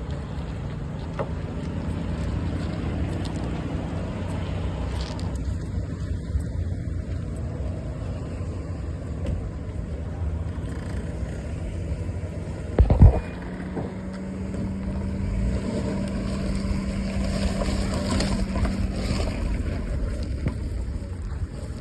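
Mercedes-Benz CLK V8 engine idling steadily with a low rumble. A single loud thump comes a little past halfway through.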